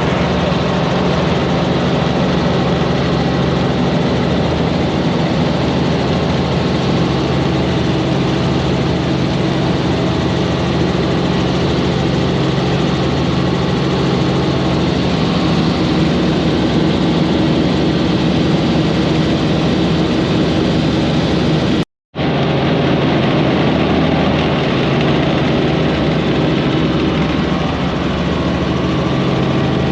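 Robinson piston helicopter in operation: a steady, loud drone of engine and rotor with a constant low hum. It breaks off for a split second about 22 seconds in, then carries on unchanged.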